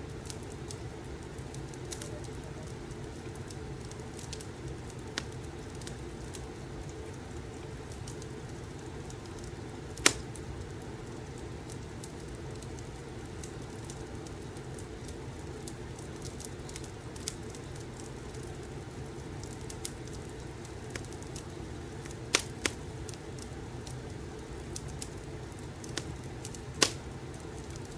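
Wood fire crackling: a steady low rush of flame with scattered sharp pops, the loudest about ten seconds in and a few more in the last third.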